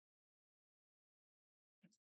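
Near silence: a silent pause with one faint, brief tick near the end.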